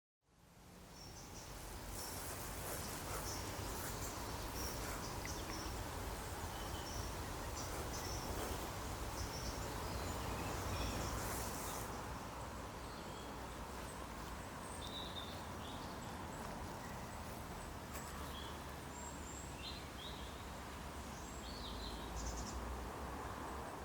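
Outdoor nature ambience fading in: a steady background rush with scattered faint bird chirps.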